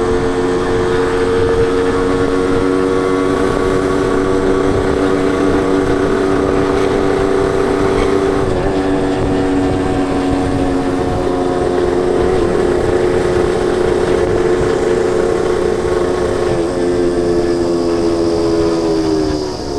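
Suzuki Wolf 125 two-stroke single-cylinder motorcycle running at a steady cruising speed, its exhaust note holding steady with a rushing noise underneath. The pitch dips slightly a few times and falls near the end as the bike slows.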